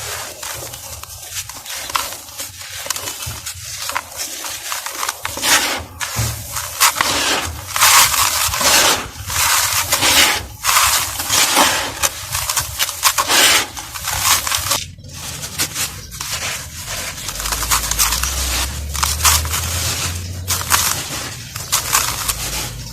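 Dusty molded mugs or bowl shapes crumbling and being crushed: a dense run of gritty crunches and crackles. The crunching gets louder and fuller from about six seconds in, with a brief pause about two thirds of the way through.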